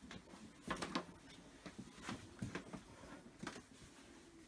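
Faint, scattered clicks and light scrapes of wooden flat-pack cupboard parts being handled during assembly.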